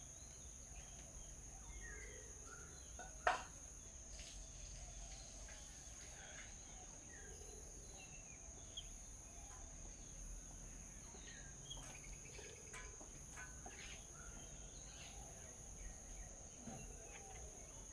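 Insects drone steadily at a high pitch under scattered short bird chirps. A single sharp click sounds about three seconds in.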